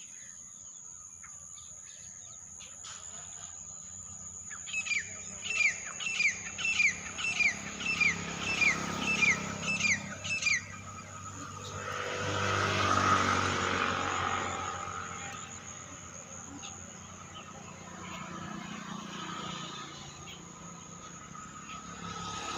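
Outdoor ambience: a bird sings a run of about a dozen quick, downward-sliding whistled notes, roughly two a second, over a steady high-pitched whine. Soon after the song stops, a broad rushing sound swells up and fades away.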